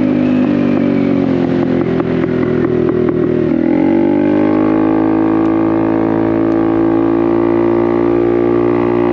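Honda Navi's small single-cylinder engine with a Vance & Hines aftermarket exhaust, running under way. The pitch dips briefly a few seconds in, then rises and holds steady as the throttle is rolled back on.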